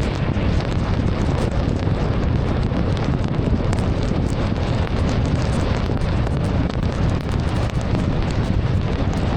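Heavy rain pelting a moving car, a dense patter of drops over a steady low rumble of tyres on the wet road.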